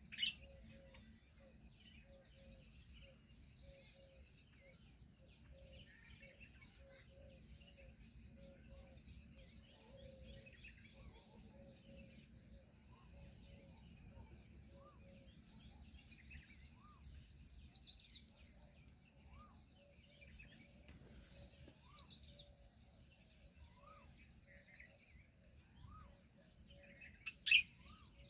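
Many small birds chirping and twittering together, with a low note repeating about twice a second underneath. A sharp knock sounds just after the start and again near the end.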